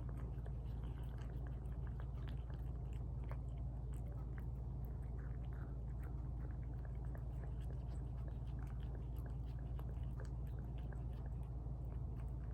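Cats chewing and eating wet tuna from bowls, close to the microphone: a steady run of small, wet chewing clicks over a constant low hum.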